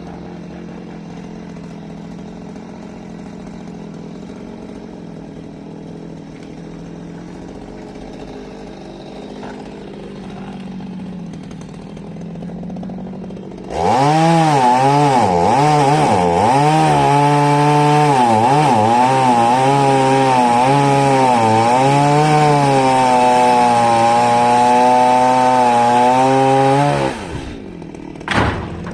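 Two-stroke chainsaw idling, then throttled up about 14 seconds in and run loud at high revs for about 13 seconds. Its pitch dips and recovers again and again, as when the chain bogs in wood during a cut. It then drops back to idle, with one short blip of the throttle near the end.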